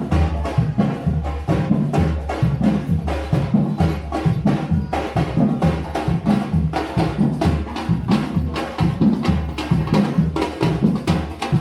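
Percussion music: drums keep up a steady rhythm of deep beats under many rapid, sharp clicking strikes.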